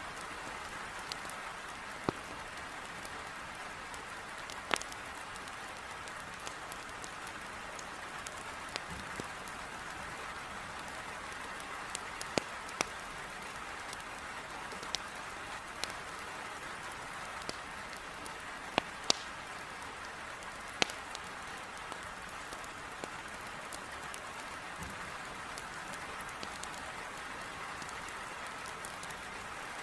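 Heavy rain on a window, a steady hiss, with sharp pops of firewood burning in a fireplace, about fifteen of them at irregular intervals.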